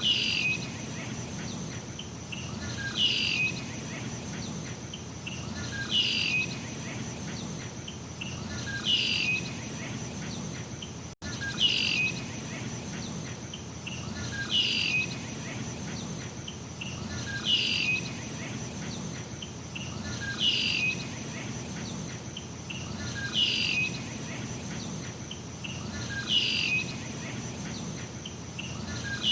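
Insects trilling steadily and high, with a bird repeating a short downward-sliding call about every three seconds. The whole sound cuts out for an instant about eleven seconds in.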